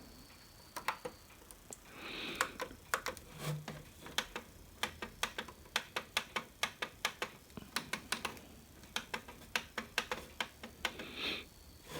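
A string of light, irregular clicks and taps from hands handling small plastic parts and an audio cable plug while an AUX lead is fitted to a mini hi-fi system. There is some faint rustling between the clicks.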